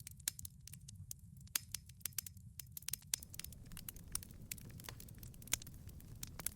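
Wood fire crackling in a wood-fired pizza oven: frequent sharp pops and snaps over a low steady rumble, with the loudest pop about five and a half seconds in.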